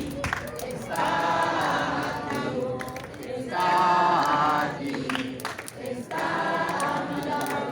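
A crowd singing a Spanish worship song together in phrases, with short breaks between the lines.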